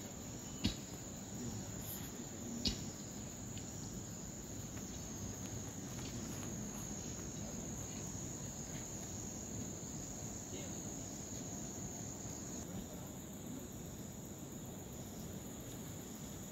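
Insects chirring steadily in one continuous high-pitched drone, with two sharp clicks in the first three seconds.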